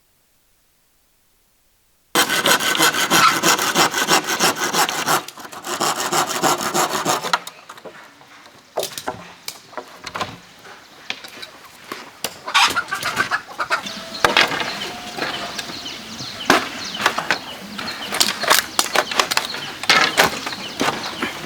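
Hand saw cutting bamboo in fast strokes, starting about two seconds in, in two runs with a short break. After that come scattered sharp clicks and knocks of bamboo being handled.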